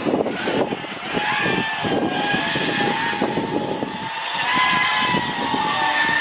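FPV quadcopter's motors whining in flight, the pitch rising and falling with the throttle and climbing about four and a half seconds in, over gusty rushing noise.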